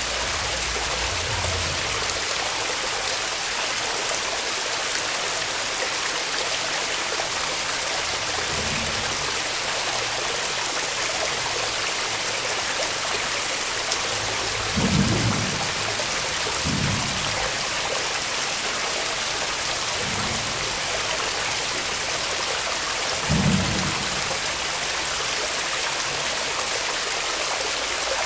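Waterfall rushing steadily, a constant splashing roar of falling water. A few brief low bumps break in about halfway through and again later.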